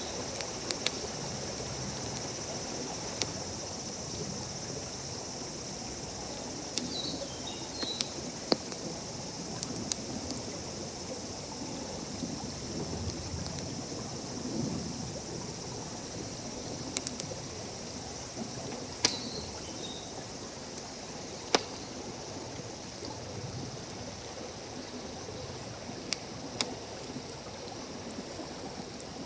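Wood campfire crackling with sparse, sharp pops, over the steady rush of a stream and a constant high insect drone. A few short high chirps come through three times.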